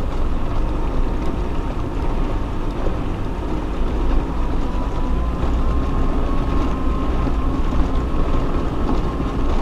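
Off-road 4x4 vehicle driving: a steady low rumble, with a thin whine that rises slightly as it goes.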